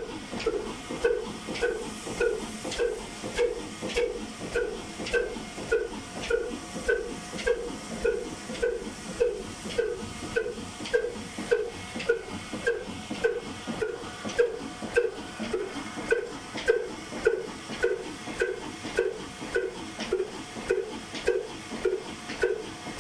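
Old black diesel engine running at a slow, steady idle, its exhaust beating evenly about twice a second.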